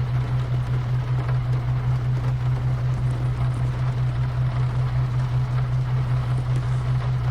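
Infiniti Q50 driving on a wet road: a steady low drone with an even hiss of tyres and water over it.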